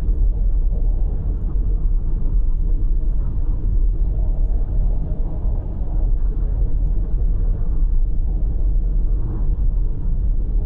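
Steady low rumble of a car driving: road and engine noise with no sudden events.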